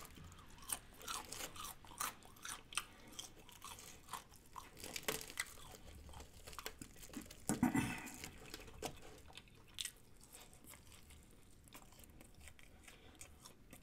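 A person chewing and crunching crispy fried chicken close to the microphone: a run of soft irregular crunches and wet mouth clicks, louder for a moment about seven and a half seconds in.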